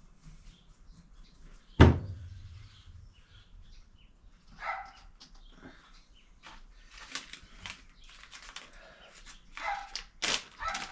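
A sharp knock of a metal part set down on the workbench about two seconds in, then small clicks and rustling from parts being handled, with two brief high-pitched cries near the middle and the end.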